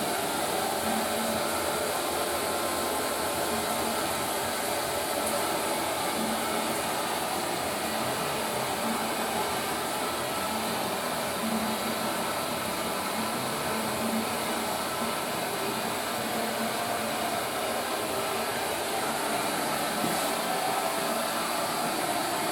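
Toilet cistern refilling after a flush: a steady rushing hiss of water that keeps up without a break.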